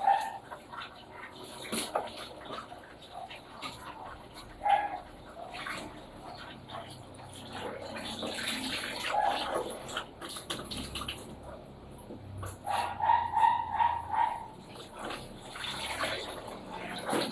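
A dog barking now and then, with a quick run of about five barks about three-quarters of the way through, over a steady background of running water and machine noise.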